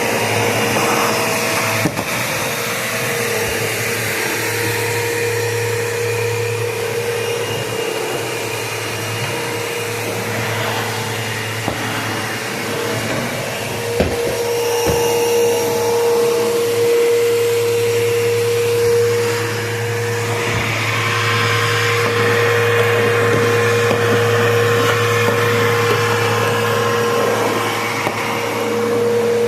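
Bissell PowerForce Bagless Turbo 6596 upright vacuum cleaner running steadily with a steady motor whine, its suction noise swelling and easing as it is pushed across the floor, with a few sharp clicks of debris being picked up.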